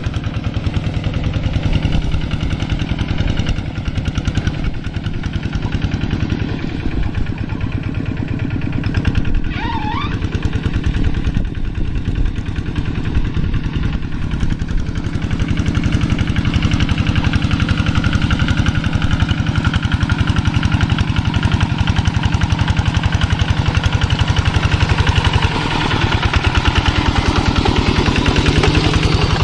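Kubota walk-behind tractor's single-cylinder diesel engine running steadily under load while pulling a moldboard plow through rice-paddy soil. It gets louder about halfway through.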